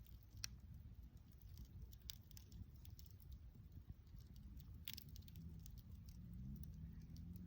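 Wood fire crackling faintly, with occasional sharp pops over a low rumble.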